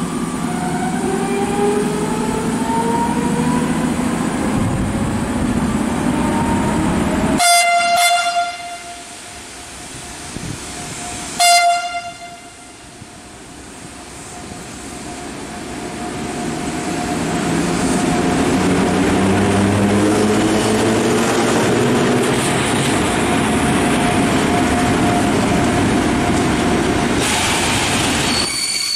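Italian FS E655 electric locomotive arriving with a historic train: a rising whine at first, then horn calls about seven seconds in and again, loudest, about four seconds later. The locomotive and vintage carriages then roll past with a steady rumble of wheels on rail that builds up, and a squeal of wheels or brakes starts right at the end.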